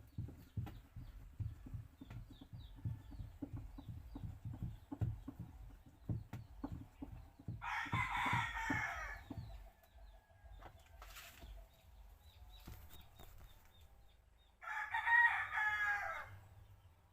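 A rooster crows twice, about eight seconds in and again near the end, each crow lasting under two seconds. Before the first crow there is a run of irregular dull knocks.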